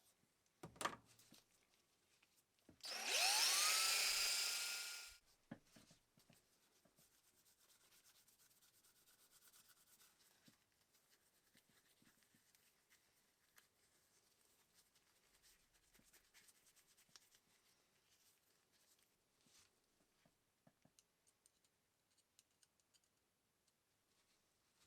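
A small electric motor spins up with a quickly rising whine, runs steadily for about two seconds and winds down, after a single knock just before it. Faint rubbing and small clicks of handling follow.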